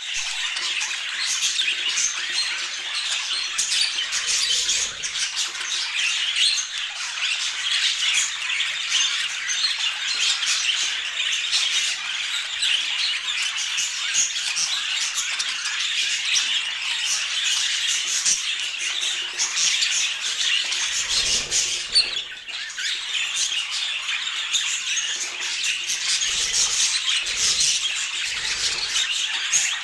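A flock of budgerigars chattering, with many short calls overlapping in a continuous dense chatter.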